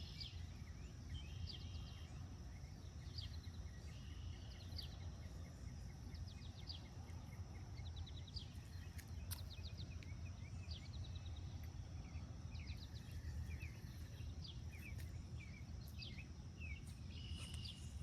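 Outdoor ambience of songbirds chirping and trilling in short repeated phrases, over a steady high-pitched tone and a low rumble.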